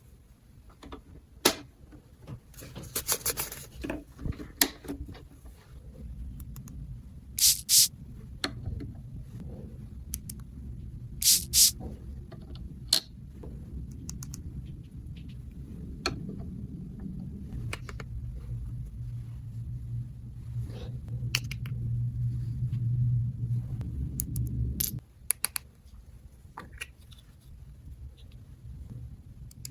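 Small plastic toy pieces being handled: irregular clicks, taps and short scrapes, a few of them sharp and loud. Under them runs a low hum that builds up and cuts off suddenly about 25 seconds in.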